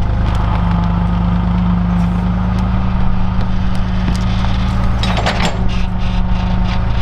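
Engine of a digging machine running steadily under load while roots are pulled out of the ground, with scattered knocks and a burst of scraping and cracking about five seconds in.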